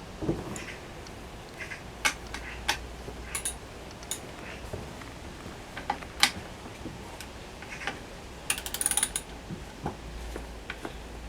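Scattered metallic clicks and knocks of hand tools and parts being handled while working on an outboard motor, with a quick run of clicks about eight and a half seconds in.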